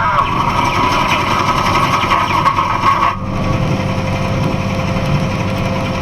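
A box truck's engine and road noise drone steadily. A higher whirring sound runs over the drone and cuts off suddenly about three seconds in.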